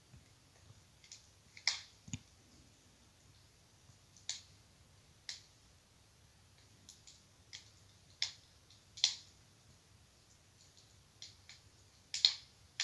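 Wood fire crackling in a fireplace: irregular sharp pops and snaps at uneven gaps, the loudest about two seconds in, around nine seconds and near the end.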